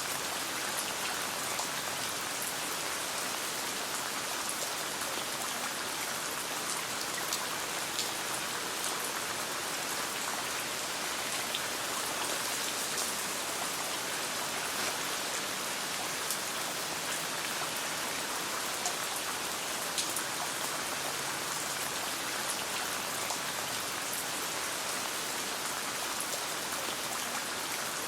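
Steady rain with scattered sharp crackles from a campfire.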